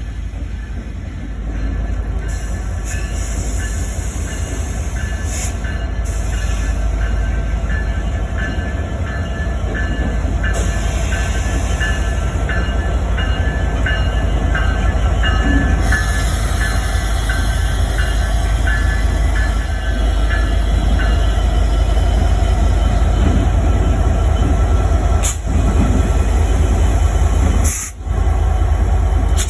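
A train running: a steady, loud rumble with a regular ticking about twice a second for much of the time.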